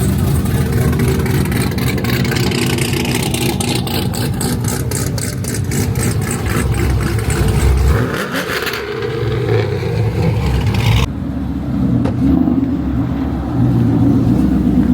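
Loud car engine running and revving, with fast pulsing exhaust pulses through the first eight seconds. About eleven seconds in the sound changes abruptly to a steadier, lower engine note.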